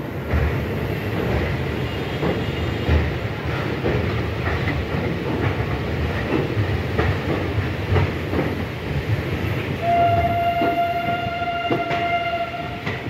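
Electric suburban local train (EMU) running along the track, a steady rumble broken by irregular clacks of the wheels over rail joints. About ten seconds in, a train horn sounds one steady note for nearly three seconds.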